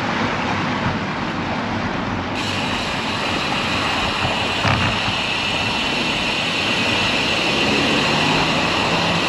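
Steady road and traffic noise with wind, heard from a moving road bicycle; a brighter hiss joins about two seconds in.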